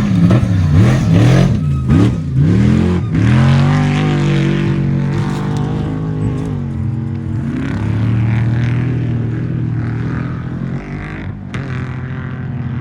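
Off-road race vehicle's engine revving up and down several times in quick succession, then holding a steady high pitch under throttle.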